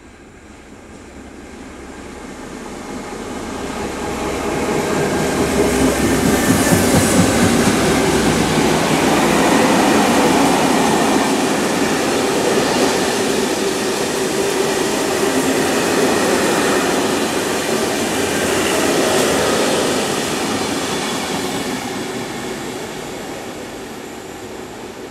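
A freight train hauled by two BB 69200-series diesel locomotives approaches and passes close by. The noise builds over the first few seconds and is heaviest around six to eight seconds in as the locomotives go by. A long rake of open box wagons then rolls past on the rails and fades near the end.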